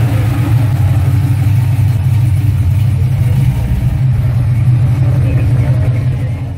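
Engine and exhaust of a 1970s Chevrolet Impala convertible, a loud steady deep rumble as the car rolls slowly away.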